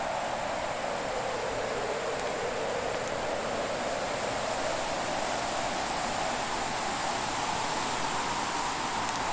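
Wood fire crackling faintly now and then over a steady rushing noise that slowly swells and sinks.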